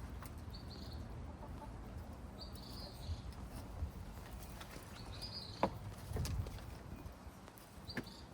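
A bird calling: short high chirps repeated four times, about every two to three seconds, over a low outdoor background, with a couple of sharp knocks from garden handling around the middle and near the end.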